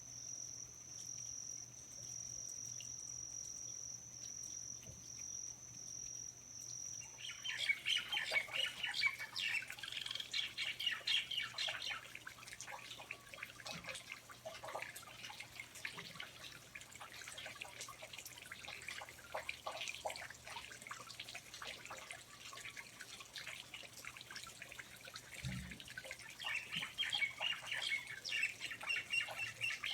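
Rainforest ambience: a steady, high-pitched insect trill for about the first seven seconds, then an abrupt change to birds chirping over water dripping. A second burst of bird chirps comes near the end.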